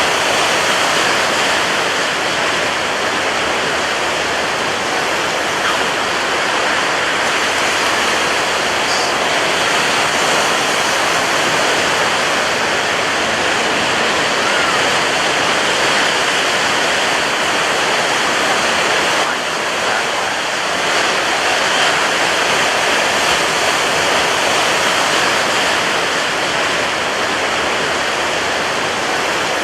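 Rough ocean surf breaking on a beach: a steady, dense rush of water that eases off briefly about two-thirds of the way through.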